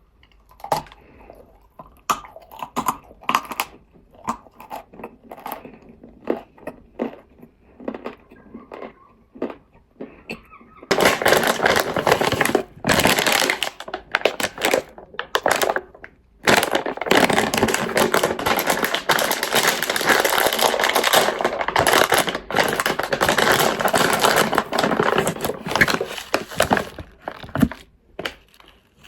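Nzu, the white edible clay chalk, crunching: scattered single crunches at first, then about a third of the way in a dense, loud run of continuous crunching and crumbling with two short breaks, thinning out near the end.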